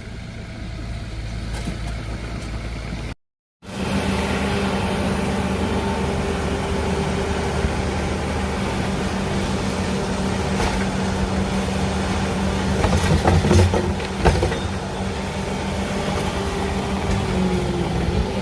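An engine idling with a steady hum, with a few sharp knocks and clatters partway through. Near the start the sound cuts out briefly, then comes back at the same steady idle.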